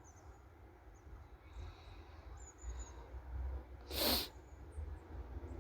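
Low steady rumble of wind on the microphone during a snowstorm, with three faint high chirps partway through and one short, loud hiss about four seconds in.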